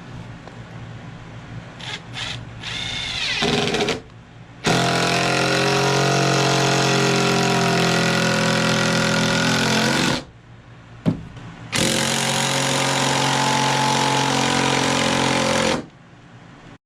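Electric drill fitted with a hole saw, cutting in two long steady runs of about five and four seconds with a short pause between them, after a brief spin-up.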